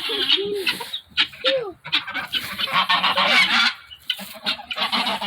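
Farm poultry in a pen calling loudly, with harsh, honking calls overlapping throughout.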